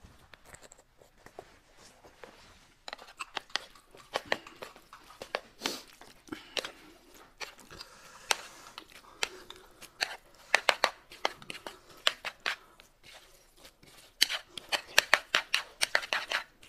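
Close-up crunching and chewing of crisp food, sharp crunches coming in quick clusters, busiest about ten seconds in and again near the end.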